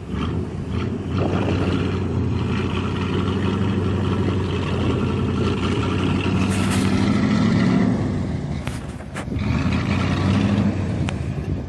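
Truck engine running steadily, its hum rising and falling, with a brief hiss about six and a half seconds in and a couple of knocks around nine seconds.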